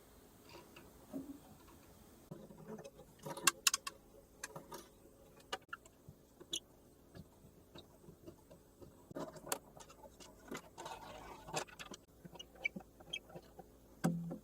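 Scattered light clicks, taps and knocks, with brief rubbing, at an irregular pace, as tools and parts are handled during work on a cello. Clusters of sharper clicks come about three and a half seconds in, around nine and a half seconds, and at the very end.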